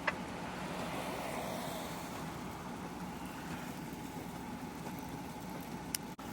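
A vehicle engine running steadily, with a short click just after the start and another near the end.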